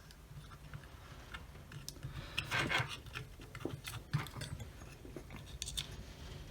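Light clicks and short rubs of small plastic camera parts being handled and fitted together as the camera module and its connector are worked back into the IP camera housing, with a louder scrape about two and a half seconds in and a sharp click about four seconds in, over a faint steady low hum.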